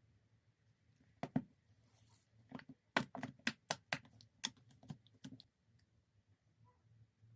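A run of light taps: two about a second in, then about a dozen in quick, uneven succession, like typing.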